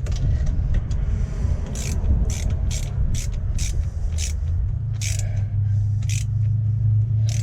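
Socket ratchet clicking through a run of short strokes, about two or three clicks a second, as a nut is tightened. A steady low hum runs underneath.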